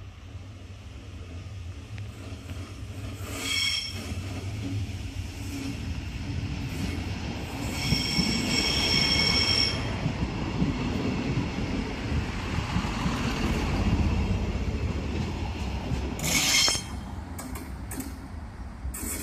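Diesel multiple unit rolling slowly past and into the station, its engine and wheels rumbling louder as it passes close by. High-pitched squealing from the wheels comes three times: briefly about three and a half seconds in, for about two seconds near the middle, and briefly again near the end.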